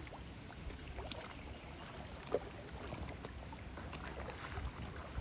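Kayak paddling: scattered small splashes and drips of water off the paddle blades over a steady low rumble, with one sharper splash or knock about two and a half seconds in.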